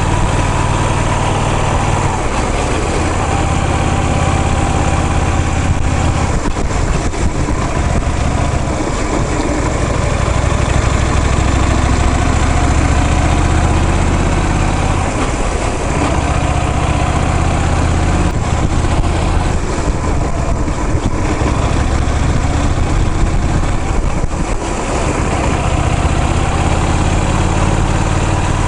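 Car engine running steadily with road noise while driving, the low engine drone shifting in level every few seconds.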